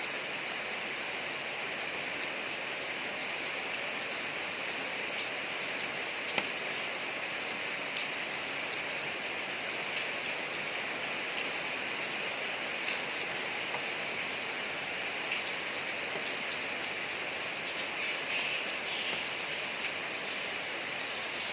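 Steady rain falling on a street, an even hiss with scattered louder drops ticking.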